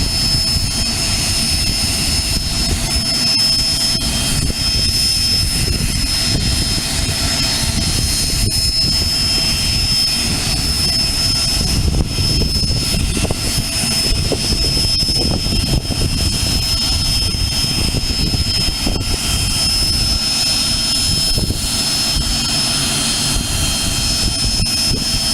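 Business jet's engines idling while it holds short of the runway: a steady high-pitched whine over a low, uneven rumble.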